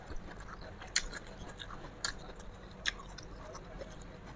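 Close-up chewing of crisp raw bean sprouts, with a few sharp crunches about once a second.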